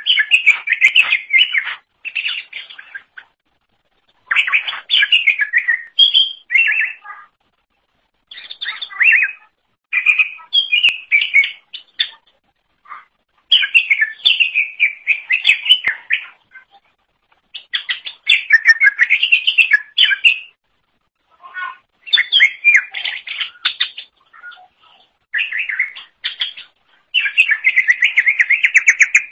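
Cucak ijo (green leafbird) singing in rich, rapidly varied phrases of one to three seconds each, with short pauses between them.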